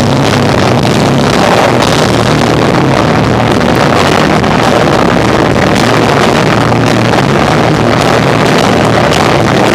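Live rock band with electric guitar, bass and drums playing loudly, the recording overloaded and distorted into a dense, muddy wash.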